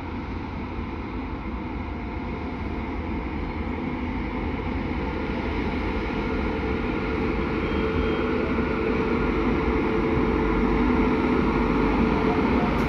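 WAP-7 electric locomotive hauling a passenger express past at slow speed: a steady rumble with a faint hum, growing louder as it nears.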